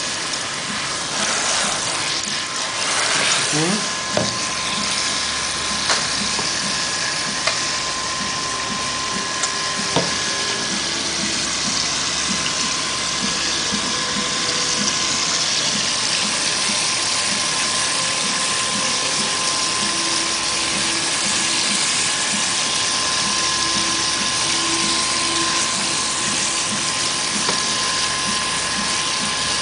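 Tap water running steadily over hair being rinsed at a sink, with a faint steady tone under the rush of the water.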